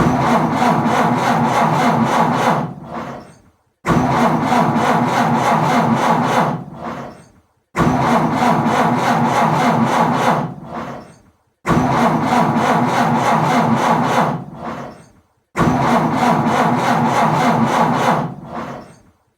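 A car's starter motor cranking an engine that will not catch, in five separate attempts about four seconds apart; each crank starts abruptly, runs for about three seconds and fades away without the engine firing.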